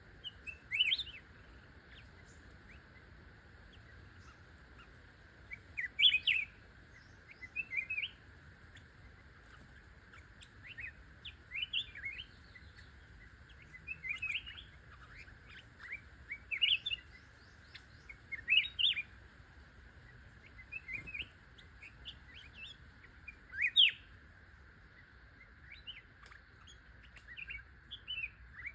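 A songbird giving short bursts of quick rising chirps, a phrase every second or two, over a steady high-pitched hum.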